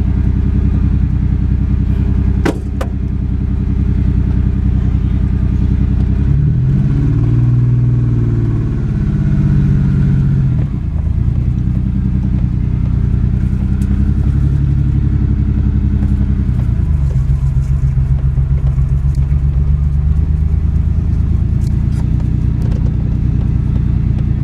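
1991 Ford Explorer's 4.0-litre V6 engine running rough on five of its six cylinders, a dead cylinder misfiring. It rises and falls in pitch twice as it is given gas, and there is a sharp click a couple of seconds in.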